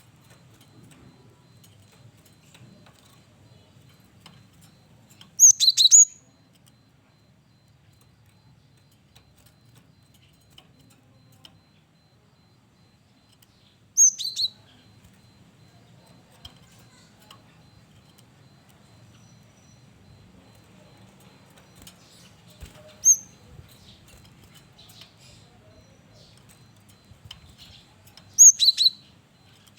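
Cinereous tit (gelatik batu) calling in short, sharp high-pitched bursts, four times, several seconds apart.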